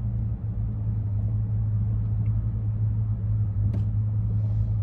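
Steady low rumble of a motor vehicle running, with one short click a little over halfway through.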